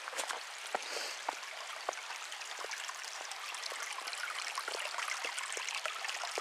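Shallow creek water trickling and babbling steadily, with many small irregular clicks and ticks over it.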